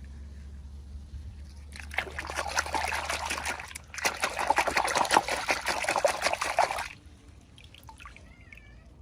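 Water trickling, in two spells of about two and three seconds with a short break between.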